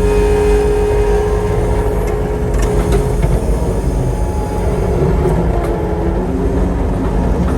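Chainsaw engine running steadily under load as it is pushed through a big log in a chainsaw mill. Its pitch wavers and sags a little in the middle as the cut loads the saw.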